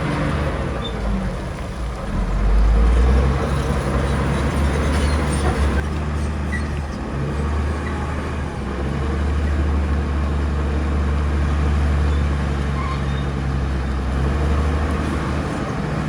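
Heavy diesel earthmoving machinery running steadily, with a deep engine drone that swells briefly about three seconds in.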